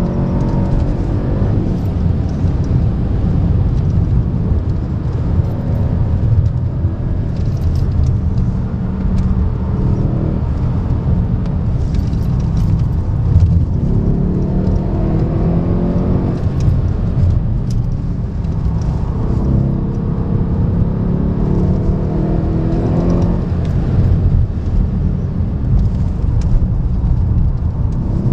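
Mercedes-AMG C63's V8 engine heard from inside the cabin, rising in pitch under hard acceleration and falling again several times, over a constant deep road and tyre rumble.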